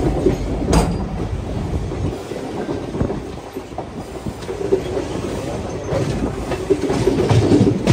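Indian Railways express train running on the rails: a steady rumble of coach wheels with a clickety-clack of rail joints and a sharp click about a second in. It eases off a little midway and grows louder again near the end.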